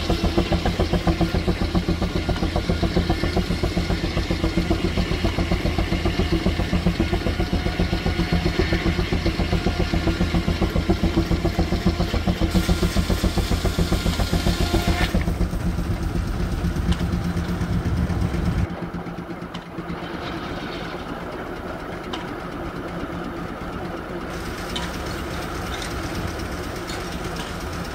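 Steam traction engine and sawmill machinery running with a rapid, steady rhythmic beat. About two-thirds of the way through it cuts off abruptly, giving way to a quieter, steadier machine sound.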